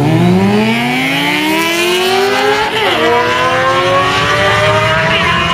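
Drag-racing motorcycles launching and accelerating hard down the strip. The engine pitch dips at the launch, then climbs steadily through the gears, with a sharp upshift about three seconds in and another near the end.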